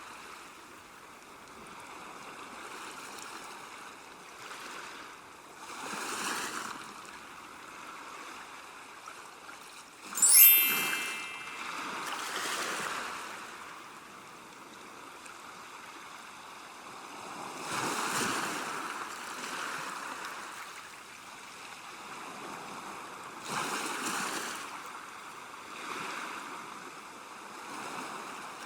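Ocean waves washing in and out, swelling every five or six seconds. About ten seconds in there is one brief, sharp, high-pitched sound, the loudest moment.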